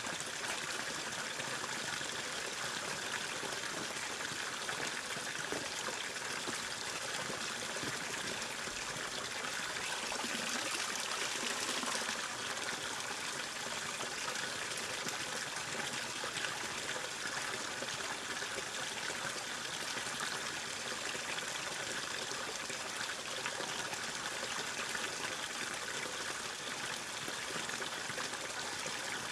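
Steady rushing and trickling of running water, continuous without pauses.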